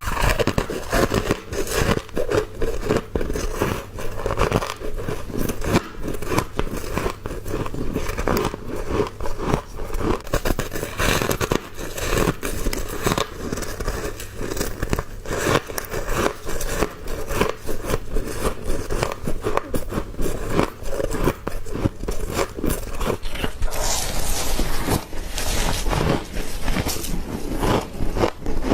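Freezer frost being bitten and chewed close to the microphone: a dense, unbroken run of crisp crunches and scraping.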